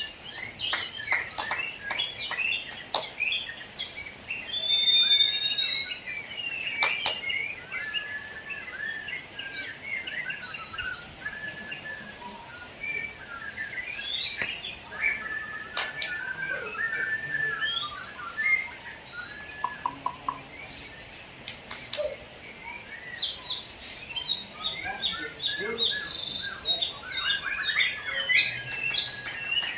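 Caged songbirds singing continuously, a varied stream of whistles, trills and chirps, with a few sharp clicks in between.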